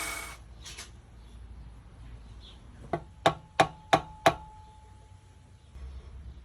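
A running machine cuts off at the start. About three seconds later come five sharp knocks, roughly three a second, the first weaker than the other four, with a faint ringing tone after them.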